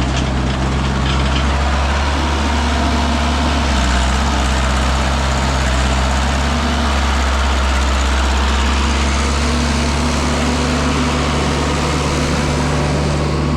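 Heavy engine running steadily at low revs with a dense rush of mechanical noise, from the stuck sand truck or the backhoe pulling it out.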